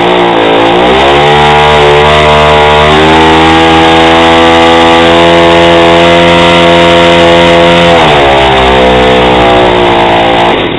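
Two-stroke chainsaw engine driving a propeller, revved up hard in the first second or so and held at high speed, then dropping back to a lower speed about eight seconds in. Its fuel-oil mix is a little off, so it doesn't run great; the owner is unsure whether it is running rich or lean.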